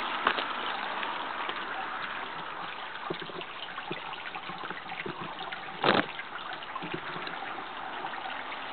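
Water trickling and lapping, with small splashy clicks and one short louder burst about six seconds in.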